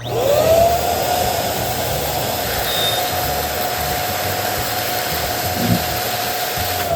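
Electric balloon inflator running: the motor whirs up to speed, holds a steady hum over a rush of air while a balloon fills, then winds down as it is switched off.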